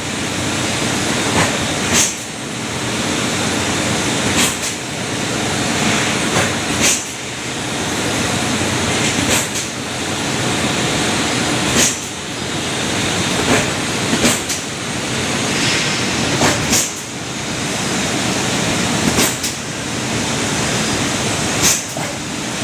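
Taiwanese Hongsing clipper machine running steadily with a constant whirring noise, punctuated by a sharp clack about every two and a half seconds as it works through its cycle.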